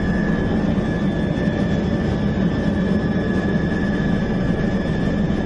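Battery-powered toy helicopter running: a steady whirring drone with a thin constant whine above it as the rotor spins.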